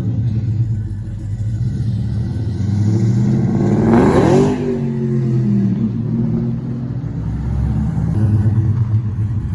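Old Ford Mustang's engine rumbling at low revs, revved once about halfway through, with the pitch rising sharply and then falling back.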